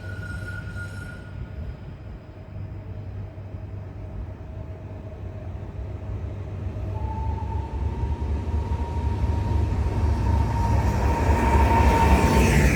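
EN76 electric multiple unit running with a steady electric whine from its traction drive and a low rumble, both growing louder as the train draws closer.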